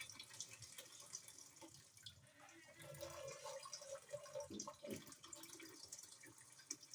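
Faint water dripping and trickling into the wash tub of a twin-tub washing machine, just filled to the medium level.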